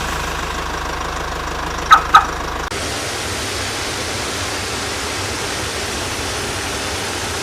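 Toy truck engine sound effect running steadily, with two short horn honks about two seconds in. A little later it switches abruptly to a different, steady noise.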